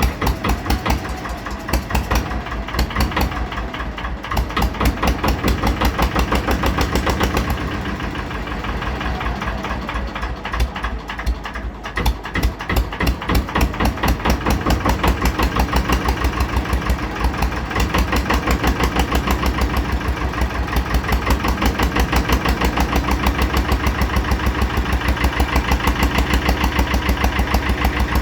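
Lister Petter PH2 two-cylinder air-cooled diesel engine in a Barford dumper, running at idle after a cold start with an even, rhythmic diesel beat. The beat turns a little weaker and less regular for a few seconds in the middle, then steadies again.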